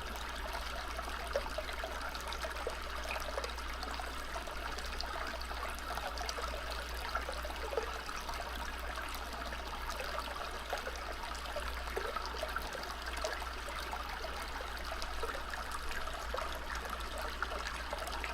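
Steady running water of a small stream, trickling and babbling, from a nature-sounds recording.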